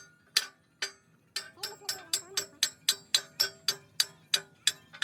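Hammer striking metal, two separate blows and then a steady run of quick blows, about four a second, each with a short metallic ring.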